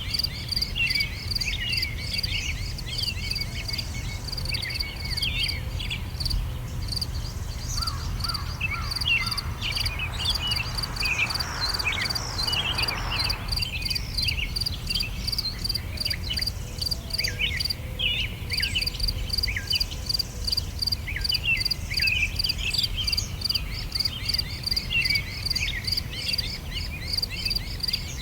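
Summer outdoor ambience: birds singing in many short chirps and quick downward notes, over a steady rapid pulsing chirp of insects and a low rumble. A brief rushing sound rises and fades about halfway through.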